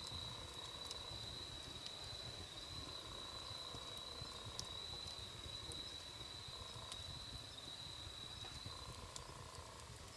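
Wood campfire crackling, with sparse sharp pops over a low rumble. A steady high-pitched whine runs alongside and stops near the end.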